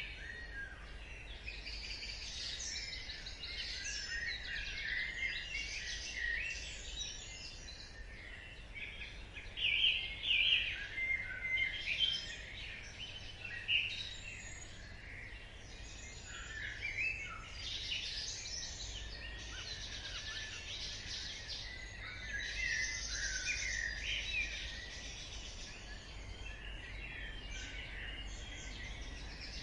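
Dawn chorus: many songbirds chirping and trilling at once, with overlapping short high calls, busiest a third of the way in, over a faint steady low background hum.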